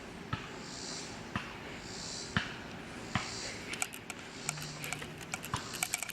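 Soft breaths close to the microphone and scattered small clicks and taps, the clicks growing more frequent in the second half.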